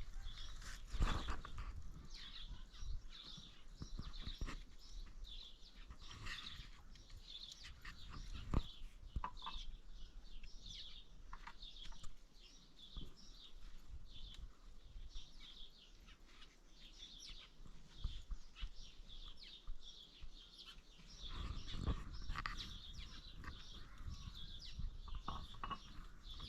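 Small birds chirping: a dense stream of short, high chirps, with a few dull knocks.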